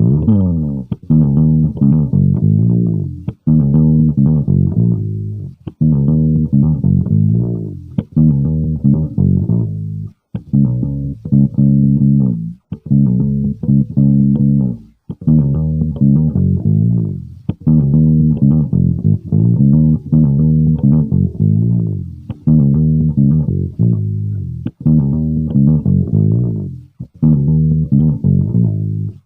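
Electric bass guitar (an Aria Pro II PJ bass) played solo, without backing track: a repeated phrase of plucked notes, broken by short gaps about every two seconds.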